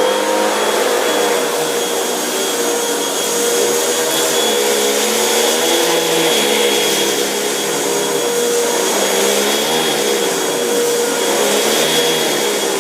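Hoover WindTunnel Rewind upright vacuum cleaner running steadily, a loud motor roar with a constant whine whose pitch wavers slightly.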